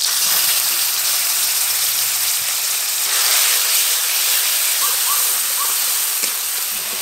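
Spice paste of sour yogurt, turmeric, cumin and green chilli hitting hot mustard oil in an aluminium wok and sizzling loudly as it is stirred with a spatula. The sizzle starts suddenly as the paste goes in and stays steady.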